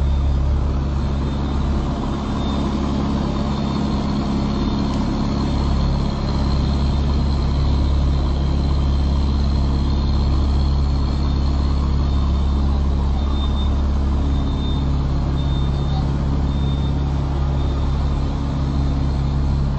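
Truck tractor unit's diesel engine running steadily at low revs, with a constant low engine note.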